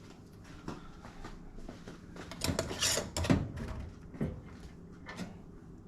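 Rummaging in a kitchen drawer for a canning lid and ring: a series of short knocks and clatters, busiest about halfway through.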